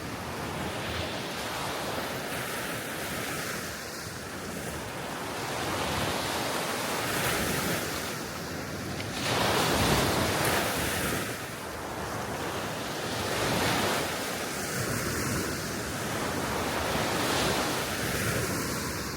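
Soft waves on a calm sea washing ashore in slow swells, with wind blowing across the microphone. One wave breaks louder about halfway through.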